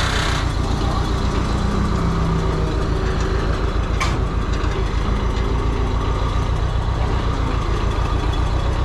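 Large diesel engine idling steadily with an even low chug. There is a single sharp click about four seconds in.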